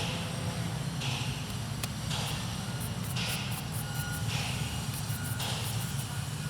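Twin small electric motors of a toy RC Boeing 787 running as a steady low hum, with a hissing swell repeating about once a second.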